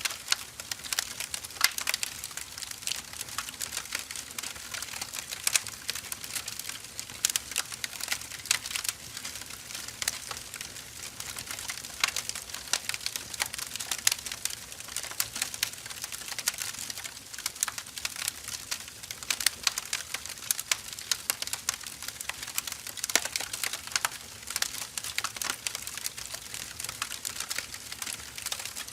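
Wood fire crackling: a continuous run of sharp, irregular pops and snaps from burning firewood logs.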